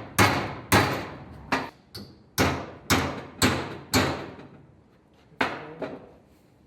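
Hammer striking metal exhaust pipework, about two sharp blows a second, each ringing briefly; the blows stop for over a second, then two more follow.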